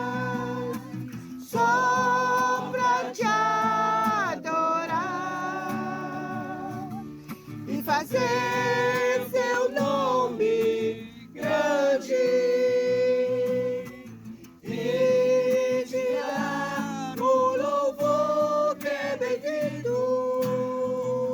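A worship song sung over guitar accompaniment: a single voice holding long notes with vibrato over steady strummed chords, pausing briefly between phrases.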